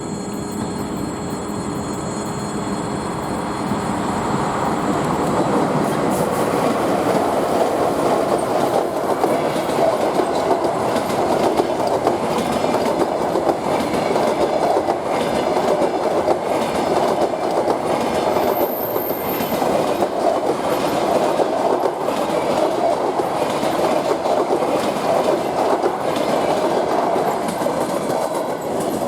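Passenger train hauled by a ChS7 electric locomotive passing close by. At first it gives a steady whine made of several tones. From about six seconds in, the carriages' wheels clatter over the rail joints in a steady rhythm, with a brief high squeal partway through.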